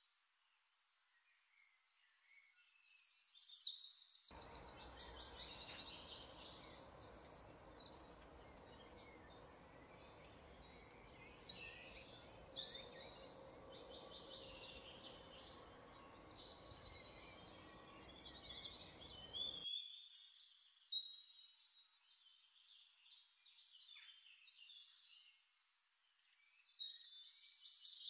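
Several songbirds chirping and singing, with rapid trills and short whistled phrases, over a faint steady background noise.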